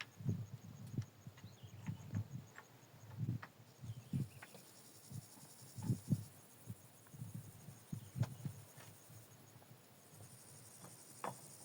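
Irregular soft thuds and light knocks, roughly one a second, as of things being handled and set down by hand.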